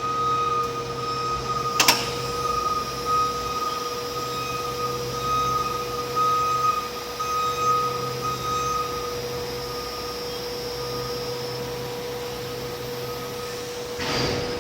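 Electric reach truck running with a steady high whine and hum, with a sharp click about two seconds in and a knock near the end.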